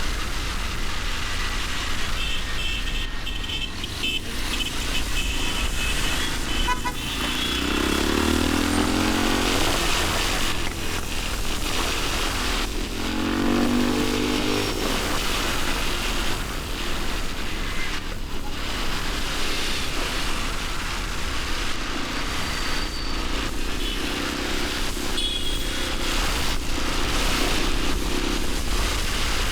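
Motorcycle engine running under way with road and wind noise in city traffic; twice the engine note rises briefly as it accelerates, about a third of the way in and again near the middle.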